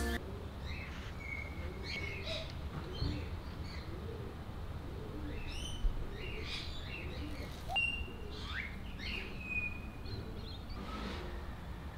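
Several birds chirping and whistling: short calls, quick rising sweeps and a few held whistles, over a steady low rumble, with a brief low thump near the middle.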